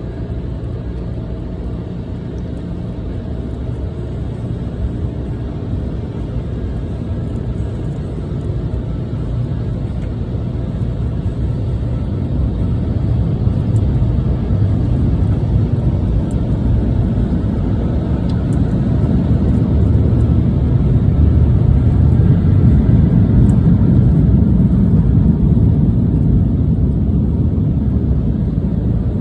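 Steady low rumble of a car heard from inside the cabin, growing louder over several seconds in the middle and then holding.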